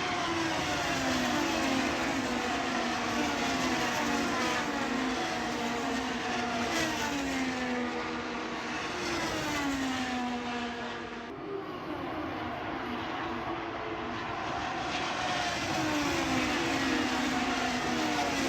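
Several sprint car engines racing on a track. Their pitch drops again and again as the cars come off the throttle, then climbs back, with several cars overlapping.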